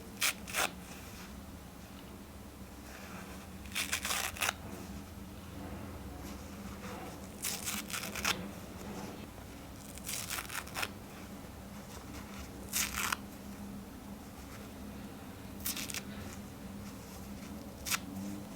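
Paper towel being torn by hand in short rips every two to three seconds, each a brief rasp, over a faint steady hum.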